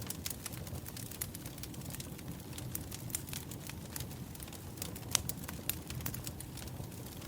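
Wood fire crackling: frequent sharp pops and snaps over a steady low rush of burning logs, with one louder pop about five seconds in.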